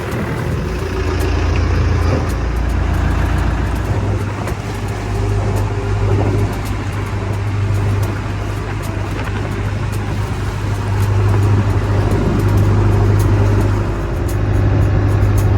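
A vehicle running steadily, with a constant low hum under an even rush of noise.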